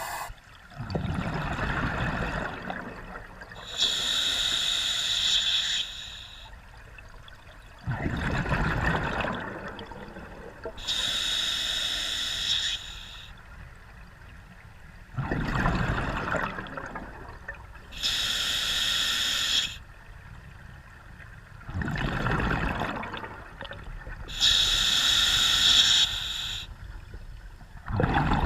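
A scuba diver breathing through a regulator underwater. A bubbling exhale alternates with a steady hissing inhale through the demand valve, about one breath every seven seconds, four breaths in all.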